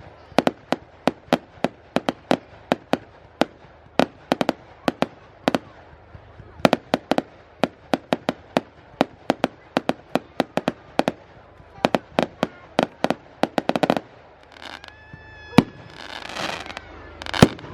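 Fireworks display: a rapid, irregular string of sharp bangs, several a second, for most of the time, then crackling bursts and a few louder bangs near the end.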